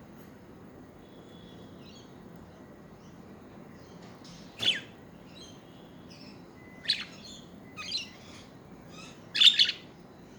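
Pet budgerigar chirping: a few faint twitters, then four short, sharp chirps in the second half, the last the loudest.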